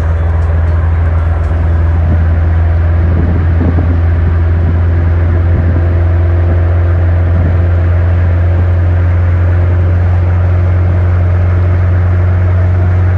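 Motorboat engine running steadily at speed, a loud constant drone that builds slightly in the first couple of seconds and then holds even.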